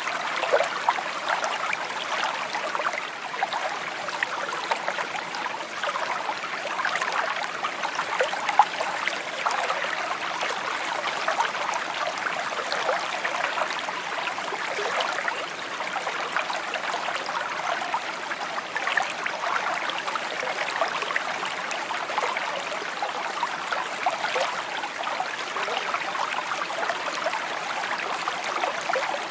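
Shallow stream babbling and trickling steadily over stones, a continuous bright splashing with many small gurgles.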